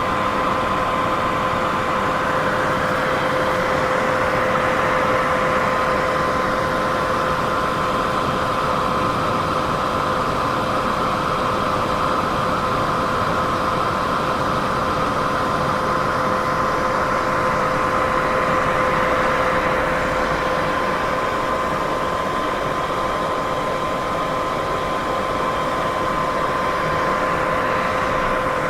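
Continuous white noise for sleep: a steady hiss, strongest in the middle of the range, with a steady two-note hum under it. It swells and eases very slowly and never breaks.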